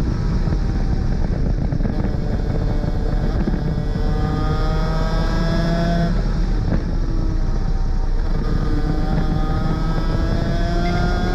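Superkart 250's two-stroke engine at full throttle. Its pitch climbs, drops sharply at an upshift about six seconds in, then climbs again through the next gear, over a heavy rush of wind.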